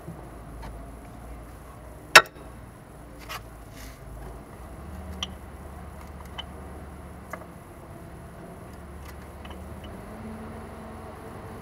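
Scattered metallic clicks and clinks of brake pads and tools being handled while new pads are fitted to a car's front brake caliper, with one sharp, loud click about two seconds in. A low steady hum runs underneath.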